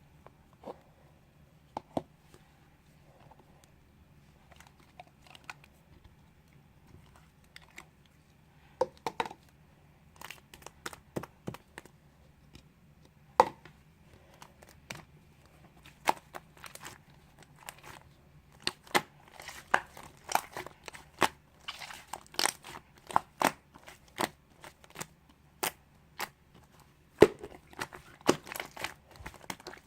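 Fluffy slime being squished and stretched by hand, giving off sharp little pops and crackles. They come sparsely at first, then thick and fast from about a third of the way in.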